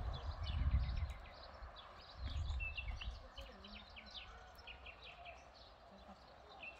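Songbirds chirping in many short, quick calls throughout, over a steady outdoor background hum, with two low rumbles, one in the first second and another about two seconds in.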